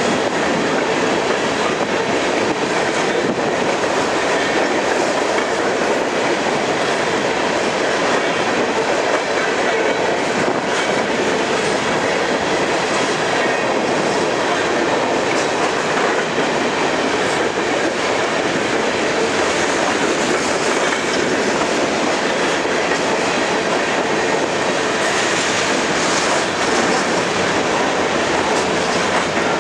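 Freight train of covered hopper cars rolling past, a steady rumble of steel wheels on rail with clickety-clack as the wheels cross the rail joints.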